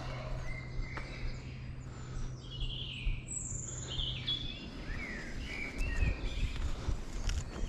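Woodland birds singing: several short chirps and song phrases from more than one bird, including a quick falling note in the middle. Footsteps on the dirt path come in near the end.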